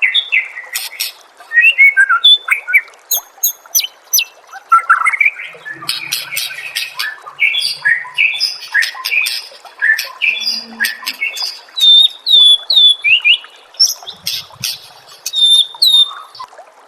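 White-rumped shama (murai batu) singing a loud, varied song of fast whistled phrases, chattering and sharp clicks. Late on it repeats a short curved note several times in quick succession.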